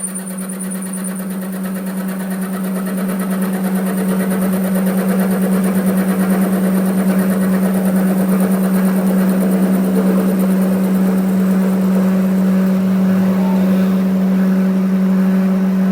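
Workshop machine running steadily: a constant low hum with overtones and a grainy, scraping noise over it, growing slightly louder over the first few seconds.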